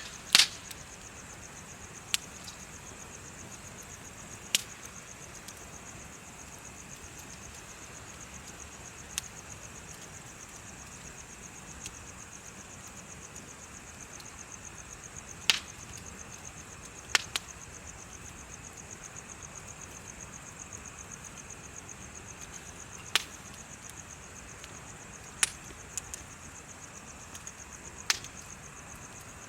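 Wood bonfire crackling, with about ten sharp pops at irregular intervals. Insects chirp steadily underneath in a high, fast trill.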